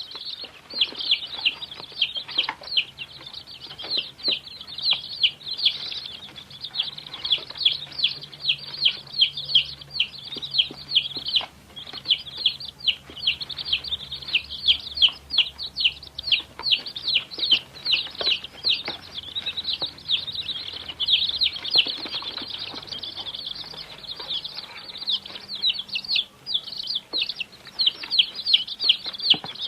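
Baby chicks peeping continuously, many high, short, downward-sliding cheeps overlapping, several birds calling at once.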